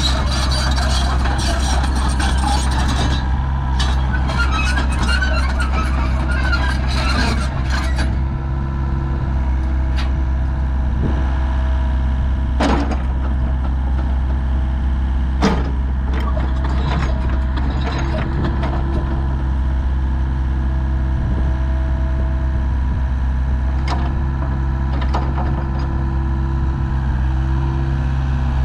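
Volvo EC55B midi excavator's diesel engine running steadily. For the first eight seconds or so there is busy clatter on top of it, and later come a couple of sharp knocks.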